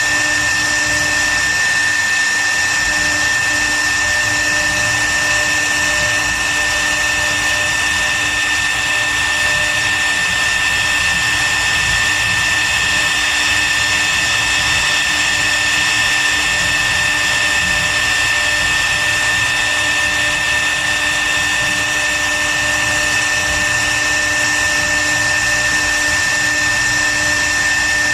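CNC wood router's spindle running steadily, a constant high whine over machining noise.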